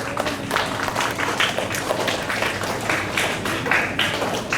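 Audience applause: a dense, uneven run of hand claps.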